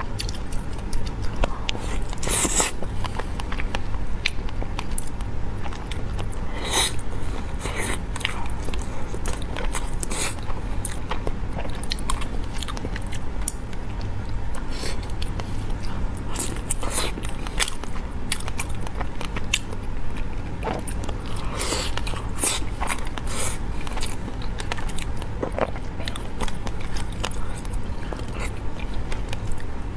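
Close-miked chewing and biting of a soft baked sushi roll topped with cheese and fish roe: irregular wet mouth clicks and smacks, picked up on a lapel mic over a steady low hum.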